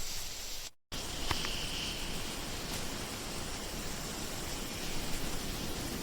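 Steady outdoor ambience, an even hiss with faint high, insect-like buzzing, after a brief cut to silence a little under a second in.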